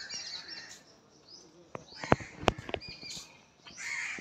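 Birds chirping and calling, with a harsh call near the end. A few sharp clicks about two seconds in are the loudest sounds.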